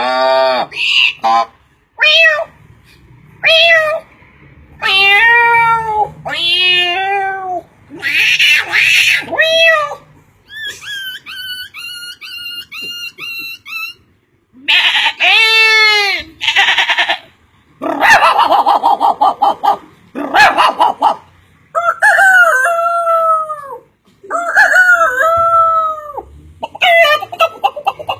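A man imitating animal noises with his voice: a string of separate loud cries, each rising and falling in pitch, some rough and rasping. In the middle comes a quick run of short repeated calls, about four a second.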